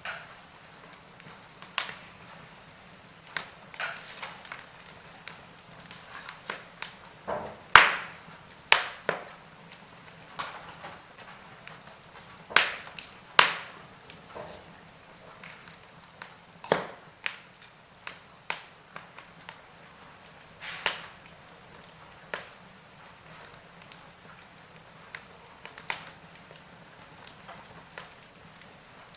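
Wood fire in a fireplace crackling, with irregular sharp pops and snaps over a faint steady hiss, the loudest pops about eight, thirteen and seventeen seconds in.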